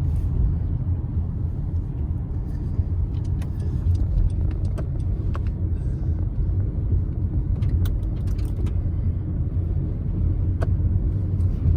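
Car driving on the road, heard from inside: a steady low rumble of engine and road noise with a few faint scattered ticks.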